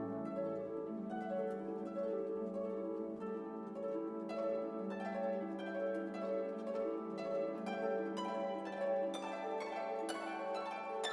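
Background music: light orchestral music with plucked harp and pizzicato string notes over sustained lower strings.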